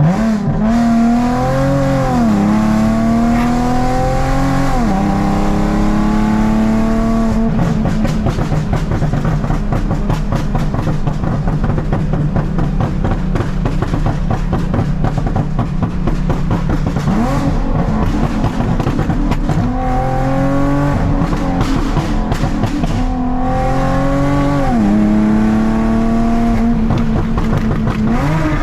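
Straight-piped Nissan 370Z's 3.7-litre V6, with muffler and resonator deleted and cats removed, pulling hard through the gears: the pitch climbs and drops with each shift in the first few seconds and again near the end. In the middle stretch the exhaust crackles and pops rapidly, as tuned to pop.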